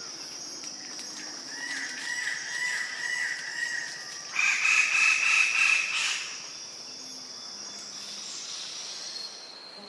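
Rooster crowing: a wavering call about a second and a half in, then a louder crow at about four and a half seconds lasting nearly two seconds, over a steady high-pitched tone.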